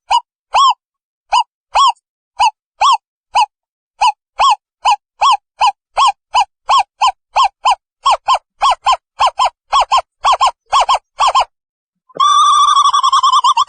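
Asian barred owlet calling: a series of short, hooting whistled notes that comes steadily faster, then runs into a continuous bubbling trill near the end.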